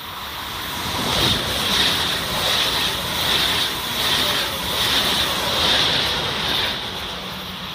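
Deutsche Bahn ICE electric train passing close by at speed. A rising rush of wheels on rail and air swells in a surge as each car goes by, about one every 0.8 seconds, then falls away near the end.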